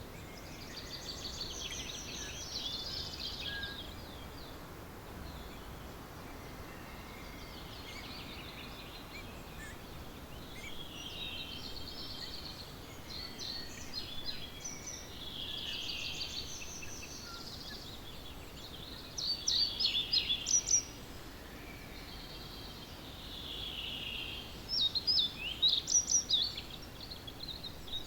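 Dawn chorus of songbirds: several birds sing short, repeated phrases in turn over a faint steady hiss. Two louder, nearer song bursts come about two-thirds of the way through and near the end.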